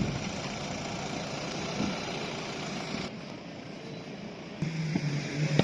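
Car engines idling, a low mixed hum; a louder, steadier engine note comes in near the end.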